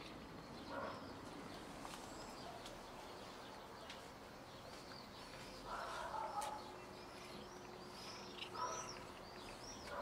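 Faint chirping of small birds, repeated short chirps that come thicker in the second half, with three brief louder calls about a second in, around six seconds and near nine seconds.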